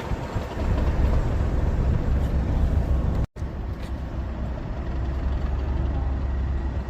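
Class 37 diesel locomotive's English Electric V12 engine running with a steady low drone, the sound cutting out for an instant a little over three seconds in.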